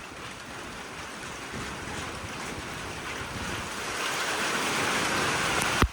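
Roar of wind-driven heavy rain from an arriving squall line, growing steadily louder, with a sharp click just before the end.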